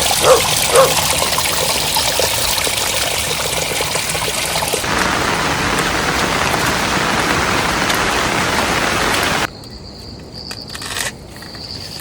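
Steady hiss of heavy rain falling, which grows fuller about halfway through and cuts off abruptly about nine and a half seconds in. A dog barks twice at the very start.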